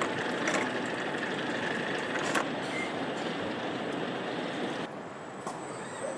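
Engine-factory machinery running in a steady mechanical din, with a few sharp metallic clanks; the din drops a little in level about five seconds in.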